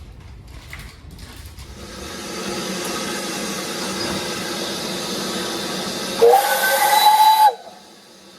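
Steam locomotive letting off steam with a steady hiss that builds up, then sounding its whistle once about six seconds in: a chord that rises briefly in pitch, holds for about a second and cuts off.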